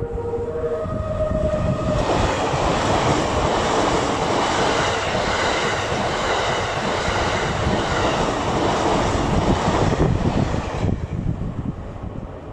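The last notes of the E001 Shiki-shima's melody horn, then the train passing at speed: a loud rush of wheels on rail that fades near the end as the last car goes by.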